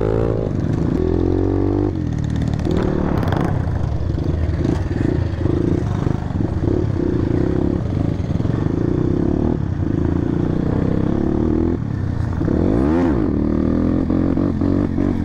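Motorcycle engine running while riding over rough ground, its pitch rising and falling with the throttle and gear changes, with a few brief knocks.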